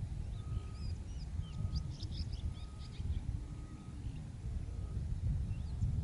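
Wild birds chirping in short, high, quick notes, with a single steady note repeating about once a second, over a low wind rumble on the microphone.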